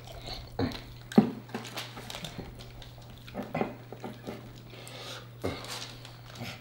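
Close-miked eating of sauced chicken wings: wet chewing and biting with meat pulled off the bones, scattered sharp clicks among them, the sharpest about a second in, over a steady low hum.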